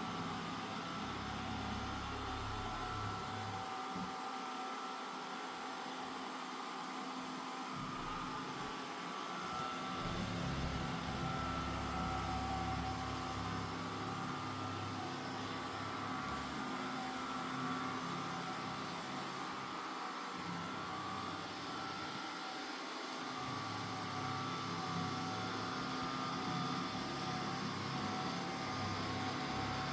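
Mova Z60 robot vacuum-mop running: a steady motor hum with a constant high whine, its low rumble swelling and fading as it moves around.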